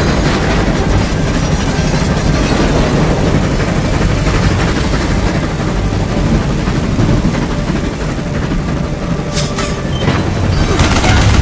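Steady, loud rumble of a moving train, with a brief sharp sound about nine seconds in and the noise growing louder near the end.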